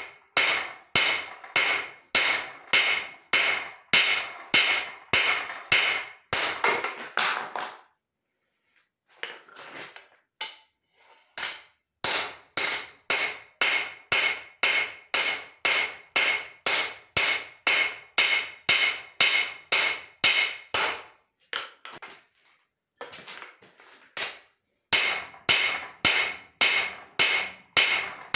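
Hand hammer striking hot leaf-spring steel on an anvil in steady blows, about two and a half a second, each with a high ring. The hammering stops about eight seconds in, gives way to lighter taps, then resumes in long runs with a second brief pause of lighter taps near the end.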